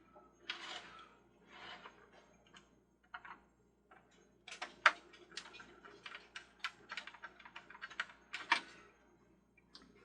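Irregular clicks, taps and knocks from small parts of a toy carousel being handled during reassembly. There are two short scrapes in the first two seconds, then a denser run of clicks from about halfway through, the loudest around five seconds in.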